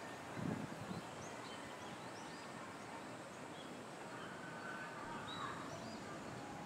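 Birds chirping with many short, high calls over faint outdoor background noise, with a brief gust of wind on the microphone about half a second in.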